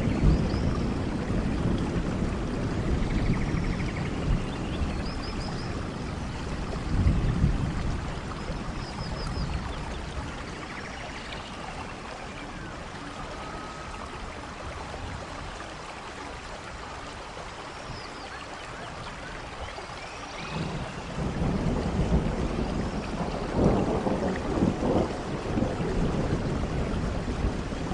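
Steady rain with rolling thunder. The low rumble fades away over the first ten seconds or so and rolls back in about twenty seconds in. Faint high chirps sound every few seconds through the rain.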